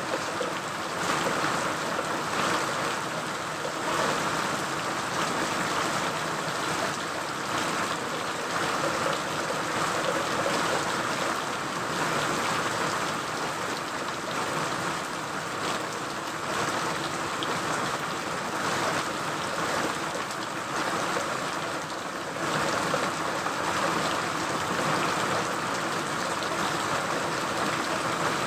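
Steady rain falling: an even hiss with countless small drop impacts scattered through it, and no change in strength.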